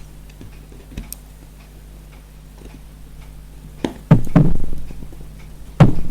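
Scattered small clicks and taps from a screwdriver and the plastic and metal parts of a gas-cooker lighter as its screws are put in and tightened, loudest a little before the middle and near the end, over a faint steady low hum.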